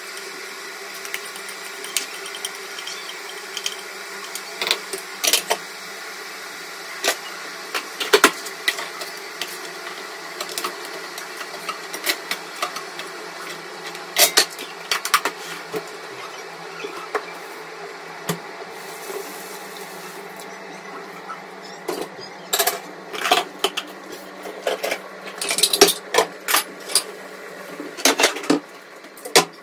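A steady machine hum with scattered clicks and clatter, thicker in the last several seconds.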